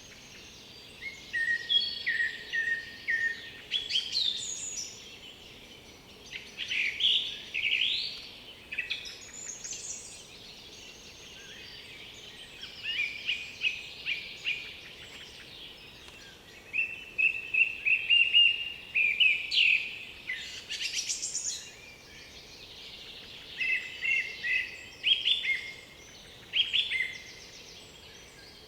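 Songbirds singing in short, varied phrases with brief pauses between them, over a faint steady background noise.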